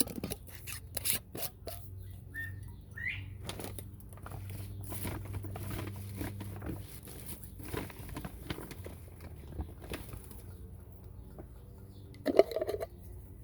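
Bobwhite quail giving a few short rising chirps amid scattered clicks and scratching sounds, with one louder brief burst near the end.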